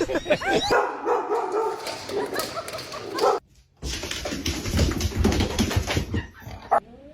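A dog whimpering and barking, in short stretches broken by an abrupt cut. A rising, pitched call begins just before the end.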